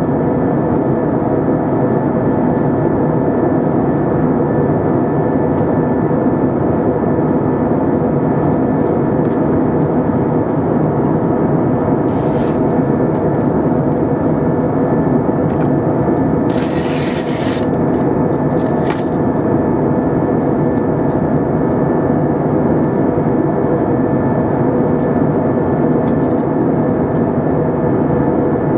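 Steady cabin drone of an Airbus A320, heard from inside the cabin: engine hum with a few steady tones under a wash of air noise. A few short hisses come about midway.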